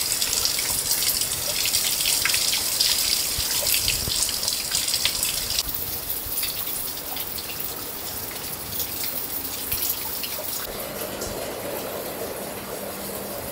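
Heavy rain pouring down, with water dripping and splattering close by from a roof edge. About halfway through it becomes quieter and duller, and a low steady hum comes in near the end.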